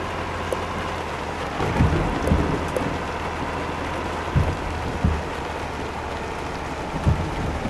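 Truck running on the road: a steady low engine drone and rushing road noise, broken by heavy low thumps at uneven intervals, about seven in all.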